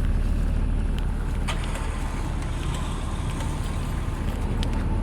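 A vehicle engine idling steadily, with a few faint clicks over it.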